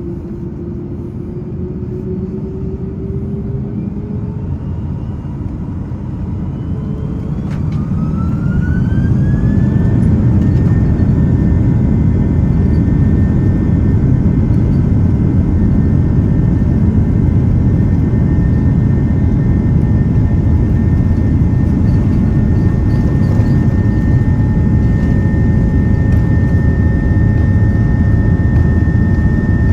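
Jet engines of an Airbus A330-300 heard from the cabin, spooling up with a rising whine over a few seconds to takeoff thrust, then holding a steady high whine over a loud low rumble.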